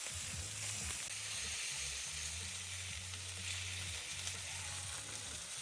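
Steaks sizzling steadily as they fry in a hot pan.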